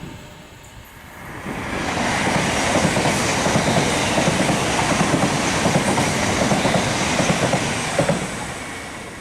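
Class 350 electric multiple unit passing through the station. A loud rush of wheel-on-rail noise with a rhythmic clatter over the rail joints builds about a second and a half in and fades near the end.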